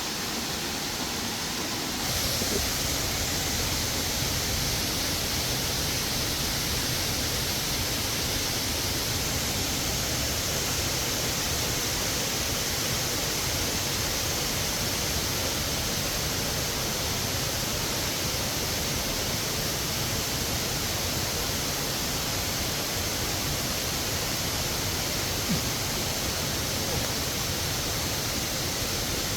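Waterfall rushing in a steady, even roar of falling water, growing louder about two seconds in and then holding steady.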